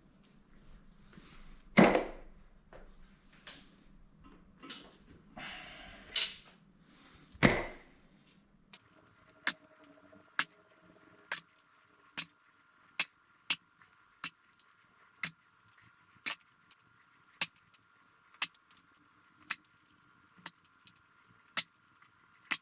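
Metal engine parts and hand tools clanking: three loud ringing clangs in the first eight seconds. After that comes a long, fairly regular run of sharp ticks, one or two a second, over a faint steady whine.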